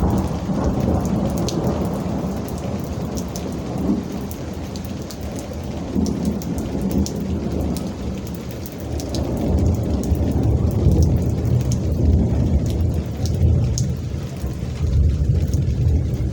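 Thunderstorm: rain falling steadily with scattered sharp drop ticks, under continuous low rolling thunder that swells louder in the second half.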